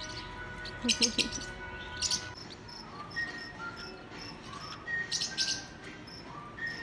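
Small pet birds chirping and tweeting in short high bursts. The loudest bursts come about a second in, at two seconds, and around five seconds in, with scattered short whistled notes between them.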